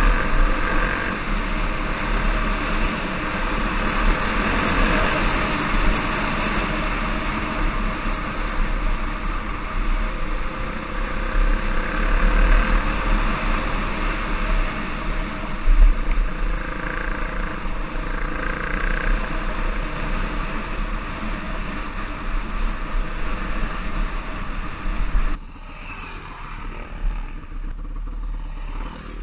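Off-road trail motorcycle engine running under way, with heavy wind buffeting on the microphone. The sound drops noticeably quieter about 25 seconds in.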